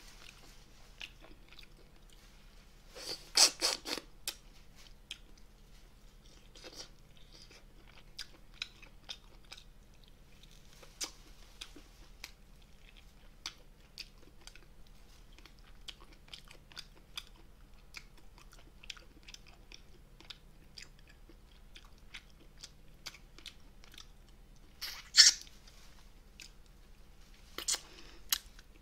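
Close-miked chewing and biting of braised spicy monkfish (agujjim): soft wet mouth sounds and small clicks throughout, with a few louder sharp crunches about three seconds in and again near the end.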